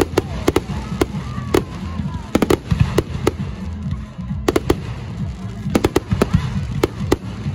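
Fireworks display: aerial shells bursting in an irregular string of sharp bangs, about two a second, with a low rumble beneath and a brief lull about halfway through.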